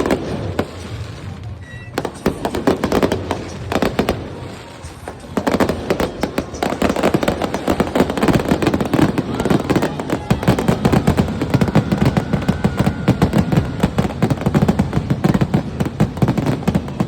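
Fireworks display: a volley of bangs and crackles, sparse at first, then building about five seconds in into a near-continuous rapid barrage of reports.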